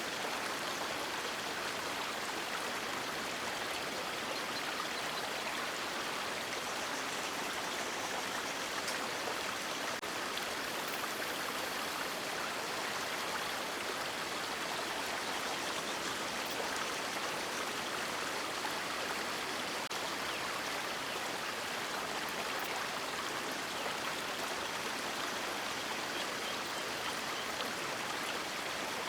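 River water rushing steadily, an even unbroken hiss of flowing water.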